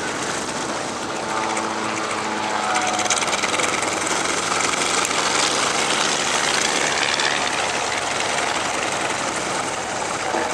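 Grumman HU-16 Albatross's twin Wright R-1820 Cyclone radial engines running steadily as the flying boat taxis, growing a little louder after about three seconds.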